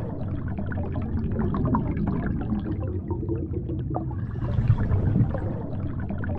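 A boat underway on the water: a steady low rumble with irregular splashing and slapping of water.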